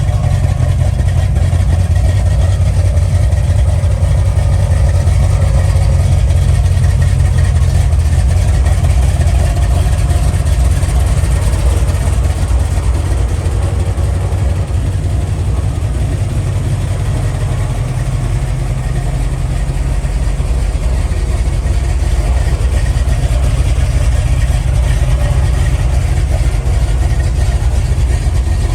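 1989 Chevrolet Caprice engine idling steadily on a freshly replaced drive belt, with no belt squeal.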